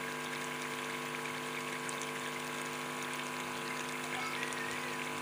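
Chicken in a tomato-onion masala sizzling and bubbling in a wok as it is fried down (bhuna), over a steady hum.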